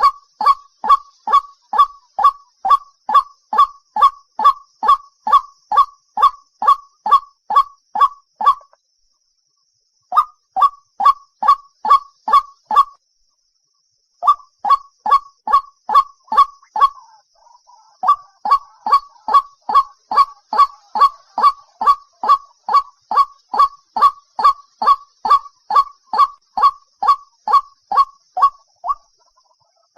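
White-breasted waterhen calls: a fast, even run of loud 'kwak' notes, about two and a half a second, from a lure-call recording. The run breaks off twice, around 9 and 13 seconds in.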